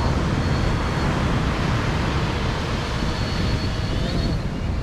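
Steady wind and surf noise with a heavy low rumble of wind on the microphone, and a faint high steady whine that fades in and out, the fishing drone's motors far out over the sea.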